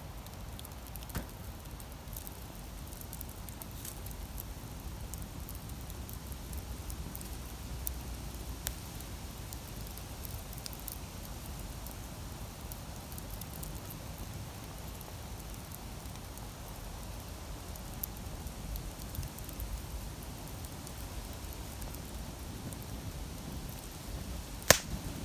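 Wood campfire crackling: scattered small pops and snaps over a steady low rush, with one sharp, loud pop near the end.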